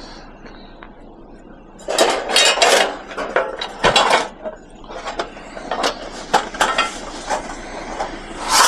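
Scrap metal chairs and parasol frame clattering and clanking as they are handled and loaded. Quiet for the first couple of seconds, then a cluster of loud rattling clanks, followed by a run of lighter metal clinks and knocks.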